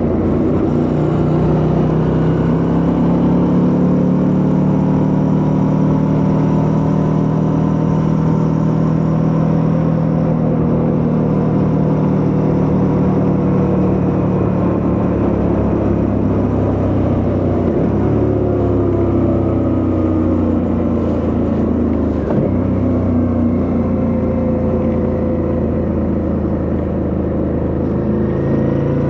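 Suzuki V-Strom 650's 645 cc V-twin engine running under way, its pitch slowly rising and falling with the throttle, with two brief dips in the latter half.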